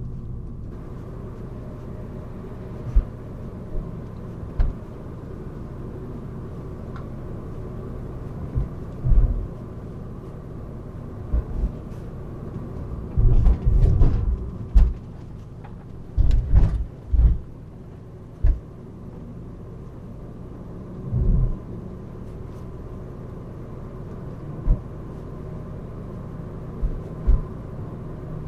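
Cabin noise from a 2012 Fiat Qubo van with a 1.4 petrol engine on the move: a steady engine and road rumble, broken by irregular low thumps and knocks, most of them about halfway through.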